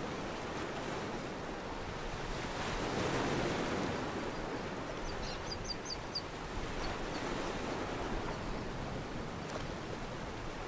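Sea waves washing steadily, swelling for a moment about three seconds in. Around the middle there is a quick run of short high chirps, then two more.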